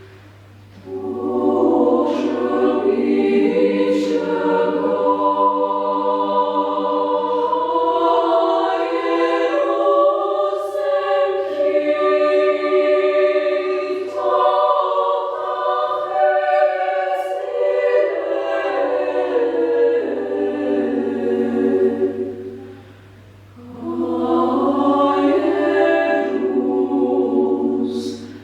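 Women's choir singing a cappella in several parts: sustained, slow phrases with brief pauses for breath between them.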